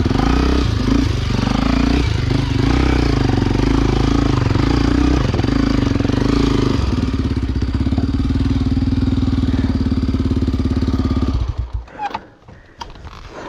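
Enduro motorcycle engine running close by, its pitch wavering in the first couple of seconds and then holding steady, before it is switched off and cuts out suddenly about eleven seconds in. A few light clicks and knocks follow.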